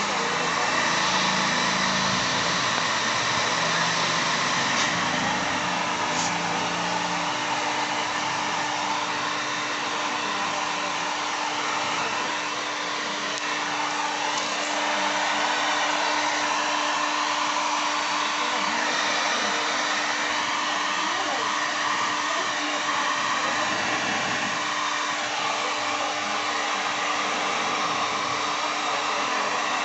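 Heat gun blowing steadily, a constant airy whoosh with a steady hum, as it melts plastic.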